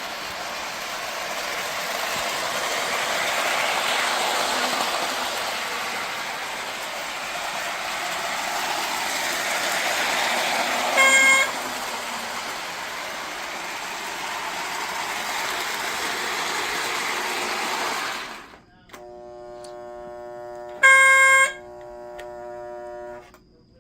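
Lionel 2032 Erie FA-1 model diesel locomotive running on its track, a steady whirring that swells and fades, until it stops about 18 seconds in. Its battery-powered horn sounds in two short, ear-piercing blasts, about 11 and 21 seconds in. A steadier, lower pitched hum is heard between the stop and the end.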